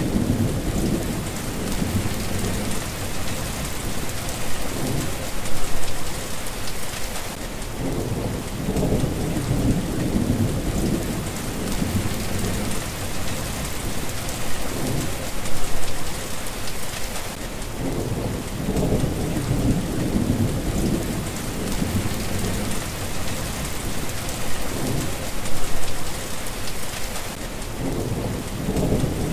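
Steady rain hissing, with low rolls of thunder that swell and fade throughout, the loudest three about ten seconds apart.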